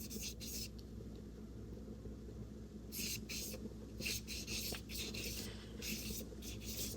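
Small flat paintbrush stroking acrylic paint across gesso-primed mixed media paper: soft, scratchy brushing in a few short strokes with pauses between them, over a faint steady low hum.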